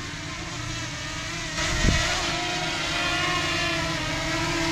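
Jeep Cherokee XJ engine running off-road and picking up revs about a second and a half in, with a single low thump just after.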